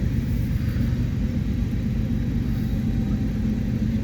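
Steady low engine rumble with no change in level.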